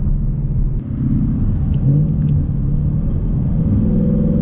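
Ford Mustang's engine and exhaust running under way, with a brief dip in level about a second in, then the engine note climbing and settling into a steady higher pitch near the end.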